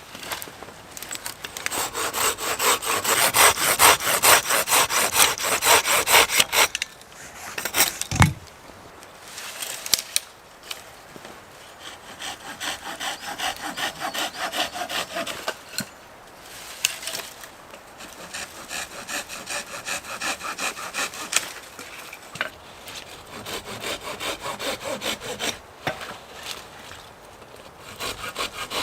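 Hand saw cutting through wood in fast back-and-forth strokes, loudest for the first several seconds, then a pause with a single thump about eight seconds in, then more, quieter sawing in several runs.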